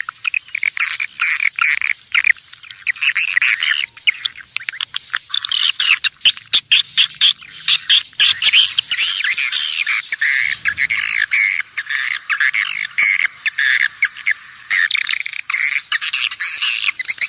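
A flock of swiftlets chirping and twittering, many quick calls overlapping without a break.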